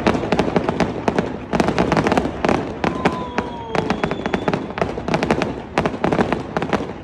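Fireworks going off in rapid clusters of sharp bangs and crackles, with a thin falling whistle about three seconds in.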